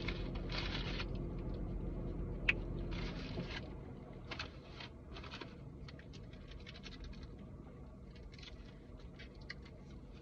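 Close eating noises: short bursts of chewing and rustling of food and wrappers, with a sharp click about two and a half seconds in, over a low steady hum that gets quieter about four seconds in.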